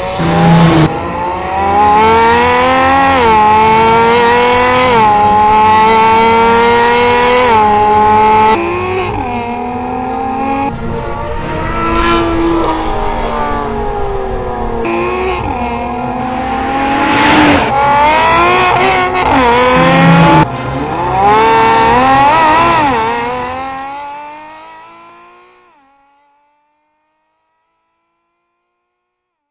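Porsche 997.2 Carrera S's 3.8-litre flat-six through an iPE valved exhaust (headers, cat pipes, Valvetronic muffler), accelerating repeatedly: the engine note climbs, drops back sharply at each quick PDK upshift, and climbs again. It fades away near the end.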